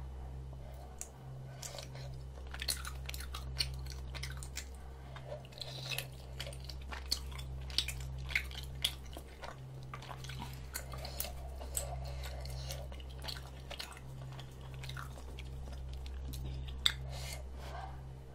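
Close-miked chewing of spicy tteokbokki rice cakes and ramen noodles, with many sharp, wet mouth clicks and smacks at irregular intervals, over a steady low hum.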